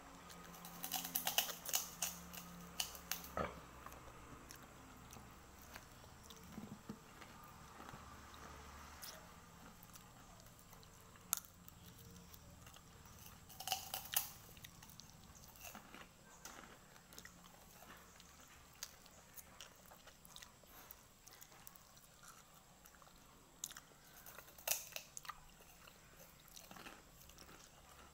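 Close-up chewing and crunching of crispy fried chicken eaten by hand: crunchy bites near the start, in the middle and near the end, with quieter chewing between.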